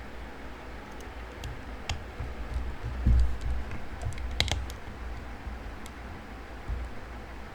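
Scattered small clicks and taps of tiny metal parts and hand tools being handled during phone reassembly, with a cluster of clicks about four and a half seconds in. A dull thump about three seconds in is the loudest sound.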